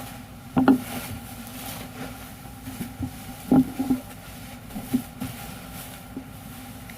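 Steady machine hum with a few sharp knocks, the loudest about half a second in and around three and a half seconds, with smaller ones near five seconds.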